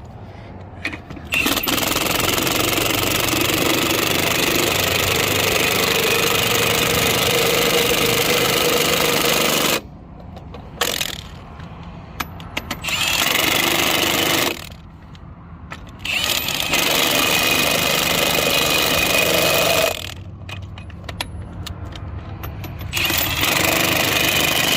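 Impact wrench on a low power setting hammering lug nuts tight on an RV's dual wheel. It runs in several bursts with short pauses between them: the first about eight seconds long, then a brief one and three more of a few seconds each, as the nuts are run down in a cross pattern.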